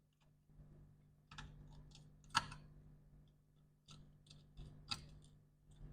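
Small sharp clicks and taps of precision screwdriver work on a laptop's screws and case parts, a few louder clicks among quieter ticks, the loudest about two and a half seconds in, over a faint steady hum.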